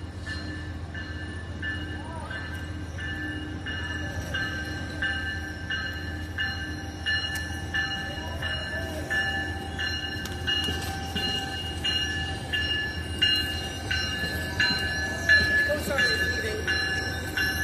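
Locomotive bell ringing steadily, about one ring every 0.7 s, over the low rumble of a train's engine.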